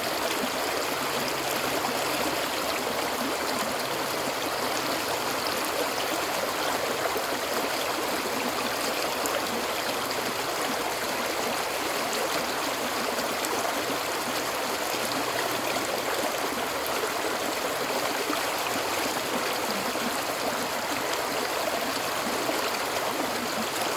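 Running water flowing steadily, like a stream over rocks, with an even rushing and gurgling that does not change.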